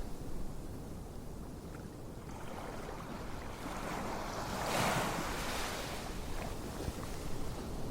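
Ocean waves washing on a shore: a steady surf hiss with one wave swelling up about five seconds in and falling away.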